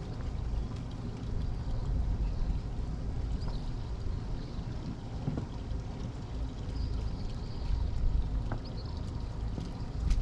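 A sailing yacht under way: a steady low rumble with water sloshing and a few light knocks.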